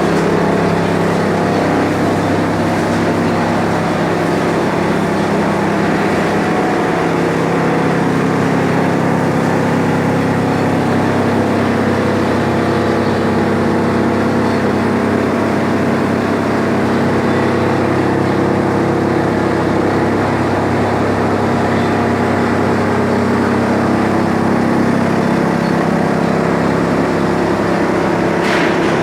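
A heavy industrial machine running steadily with an even, droning hum.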